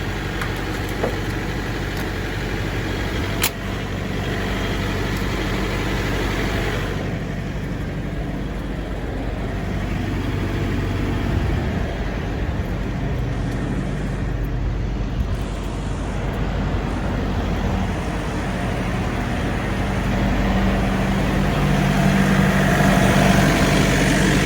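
Diesel truck engine idling steadily, with one sharp click about three and a half seconds in.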